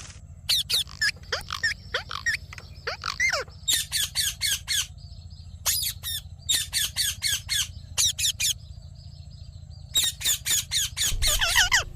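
Indian ringneck parrot calling: short, shrill calls in quick runs of several a second, with pauses between runs and a longer, louder call near the end. A steady low hum runs underneath.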